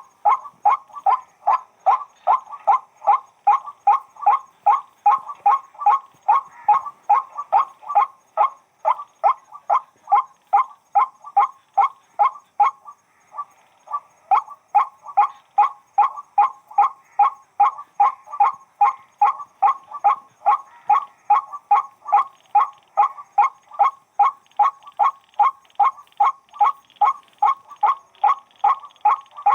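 White-breasted waterhen calling: a long, even run of short repeated notes, about two or three a second, broken once by a pause of about a second near the middle.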